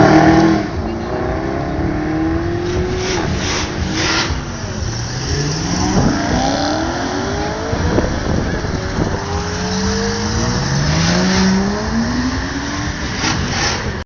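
High-performance car engine accelerating hard, its note climbing in pitch several times and dropping back between gear changes, with a few short sharp cracks.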